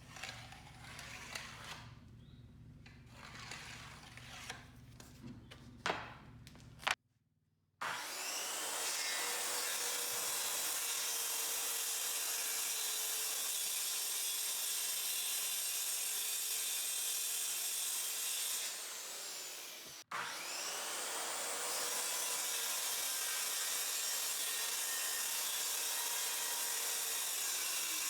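Electric power sander working a wooden surface: a steady whirring hum with a rising spin-up as it starts. It stops briefly near the middle, then starts again. Before it come a few seconds of quieter hand scraping and rubbing on wood.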